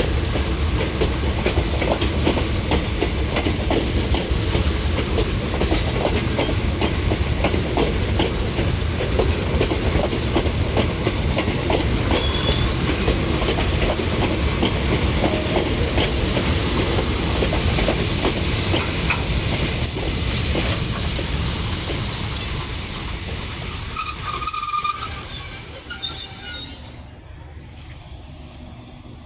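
Passenger train carriages rolling past, the wheels clicking over the rail joints, with a thin high wheel squeal in the second half. The noise drops away suddenly near the end.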